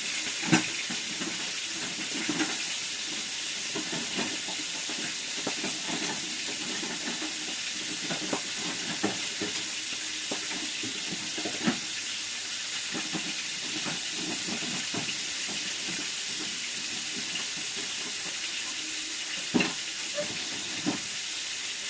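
Malangwa fish frying in hot oil in a pan: a steady sizzle, with a few sharp clicks of a utensil against the pan.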